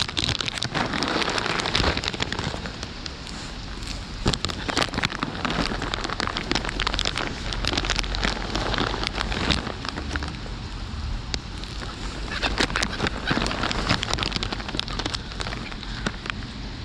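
Steady rain falling, with frequent sharp drop clicks close to the microphone.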